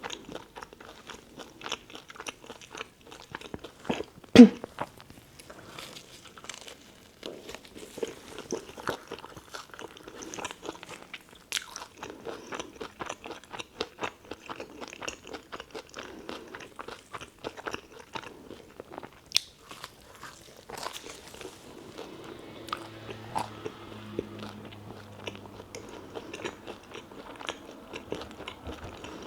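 Close-up eating of a tuna melt sandwich: crunchy bites and chewing with many small wet clicks. One much louder thump about four seconds in.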